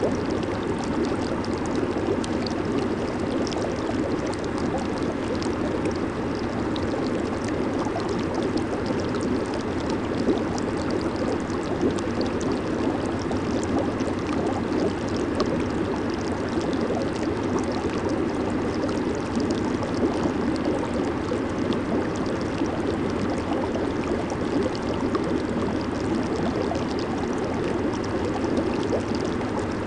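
Jacuzzi hot tub with its jets running, churning the water into a steady bubbling rush with a fine crackle of popping bubbles.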